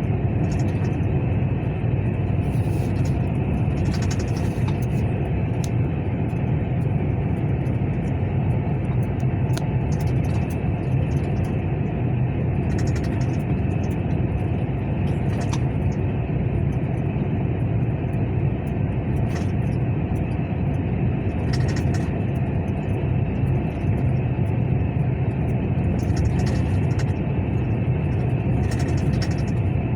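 Truck engine running steadily with a low drone, with scattered light clicks and rattles over it.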